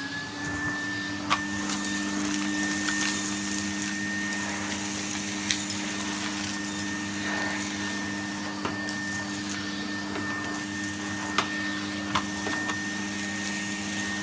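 Hoover vacuum cleaner running steadily: a high motor whine over a steady hum and rushing air, settling to full speed right at the start. A few sharp clicks sound through it.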